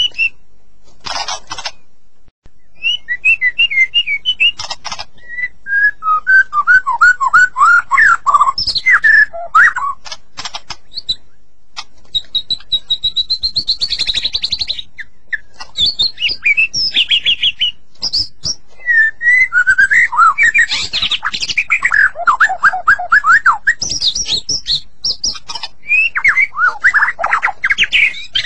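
White-rumped shama (murai batu) singing: a long, varied song of whistled phrases and fast runs of repeated notes, with short pauses between phrases.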